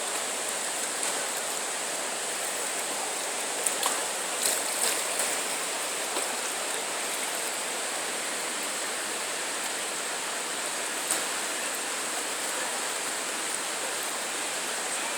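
Chattahoochee River whitewater rapids rushing in a steady roar, with a few faint brief ticks about four to five seconds in.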